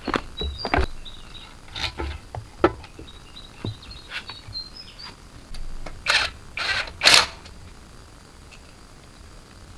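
Irregular clicks and knocks of small hard objects being handled, with three brief louder scraping or rustling sounds about six to seven seconds in. Faint bird chirps sound in the background.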